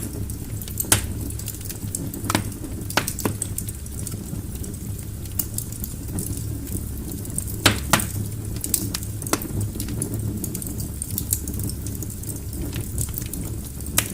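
Log fire in a fireplace crackling, with a steady low rumble and irregular sharp pops, a few louder snaps among them.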